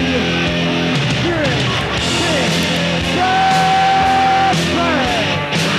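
Loud punk-style rock music with distorted guitar and a sung or yelled vocal, with one long held note a little past halfway.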